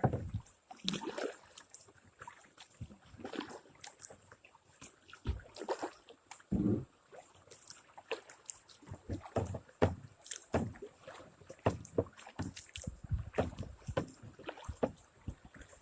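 Kayak paddling: irregular splashes and knocks as the paddle dips into the water and now and then touches the kayak, a few strokes louder than the rest.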